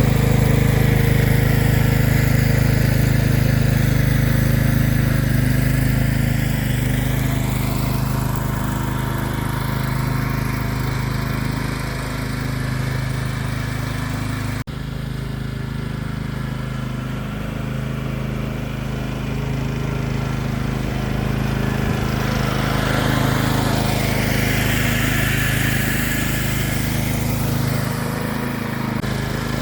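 Lawn mower engine running steadily while it tows a strap-cinched bundle of tree branches, with a sudden break about halfway through.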